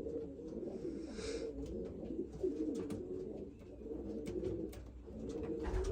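Several racing pigeons cooing together in a loft, their low coos overlapping continuously.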